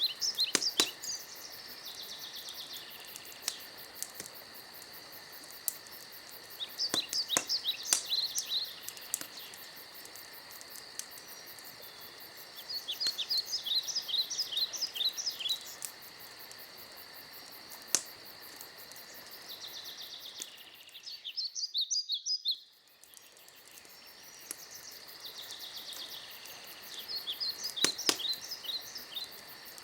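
Forest ambience: a bird sings a short trilled phrase about every six or seven seconds over steady insect chirring, with a few sharp campfire pops. The background cuts out briefly about two-thirds through and fades back in.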